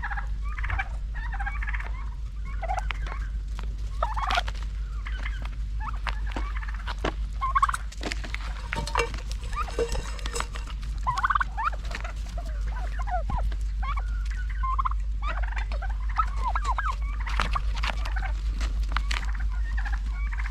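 Domestic turkeys calling again and again, short gobbling and chirping calls scattered throughout, with sharp clicks here and there and a steady low rumble underneath.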